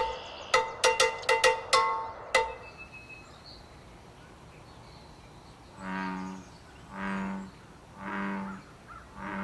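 A few beats of drum music with ringing pitched tones stop about two and a half seconds in. About six seconds in, an American bullfrog gives its breeding-season call: four low, deep notes, each under a second long and about a second apart.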